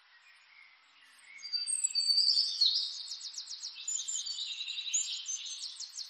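Songbirds chirping and trilling in quick high runs, starting about a second and a half in over a faint steady hiss.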